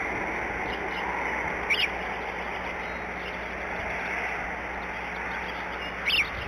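Steady outdoor hiss with two brief, high bird chirps, the first about two seconds in and the second near the end.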